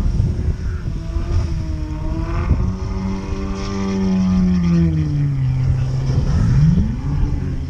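A vehicle engine revving. Its pitch climbs slowly over the first few seconds, holds, then drops, and it revs up quickly again about a second before the end.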